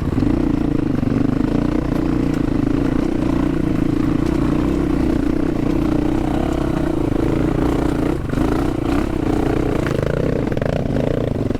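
Dual-sport dirt bike engine running while the bike is ridden along a dirt trail, holding a steady note, then the revs drop and rise unevenly about eight seconds in.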